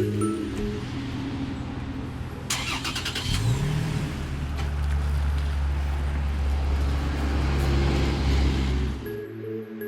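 2018 Toyota Tacoma's engine cranked and started about two and a half seconds in. The revs rise briefly as it catches, then it settles into a steady idle through the aftermarket-or-stock exhaust under comparison, cutting off near the end.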